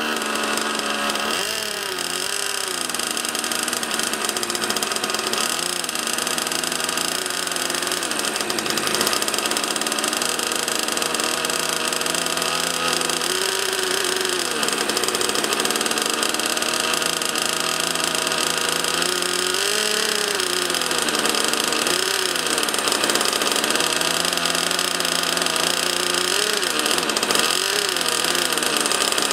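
The miniature turbine engine of an RC model jet running on a ground run, with a steady high-pitched whine. Its pitch swells up and back down several times as the throttle is moved.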